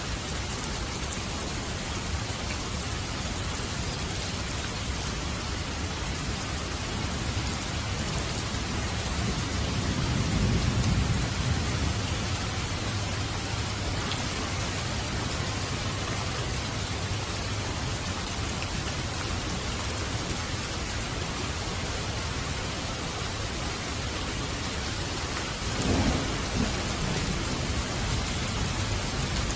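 Steady rain falling, with thunder rumbling low about a third of the way in and a sharper thunderclap that rolls on near the end.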